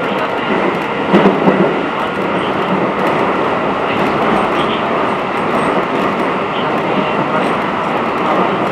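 Keikyu New 1000 series electric train running, heard from inside the passenger car: a steady rumble of wheels on rail with a few sharper clacks about a second in.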